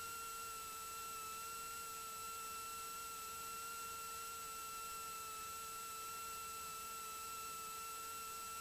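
A steady, faint electrical whine of several tones together in the Cessna Skylane's cockpit intercom audio feed.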